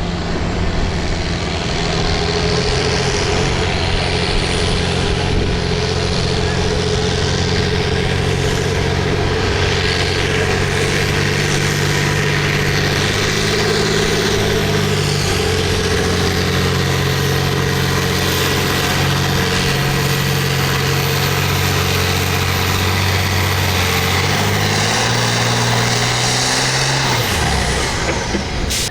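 Farm tractor engine running hard under load as it pulls the weight sled, holding a steady pitch with small shifts. Near the end the pitch falls away quickly as the throttle comes off.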